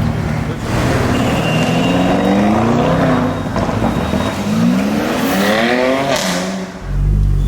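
Car engine accelerating hard, its pitch climbing in two long pulls, then a deep, loud low rumble from close by near the end.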